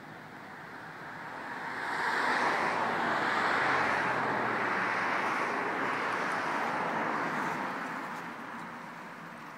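A vehicle passing by: a broad rushing noise swells up over a couple of seconds, holds, and fades away near the end.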